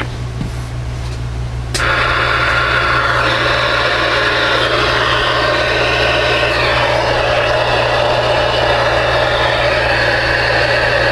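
CB radio receiver on the air: a steady low hum, then about two seconds in a click and loud channel static hiss with faint garbled sounds under it.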